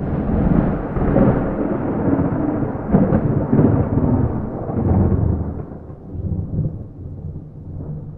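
A thunderclap: a sudden crack out of silence, then a long low rumble that swells again around three and five seconds in and slowly fades away, with no rain.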